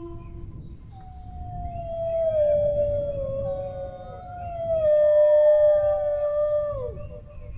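Dog howling: one long howl that starts about a second in, slides down in pitch, holds, and then drops off near the end. A second, higher howl overlaps it.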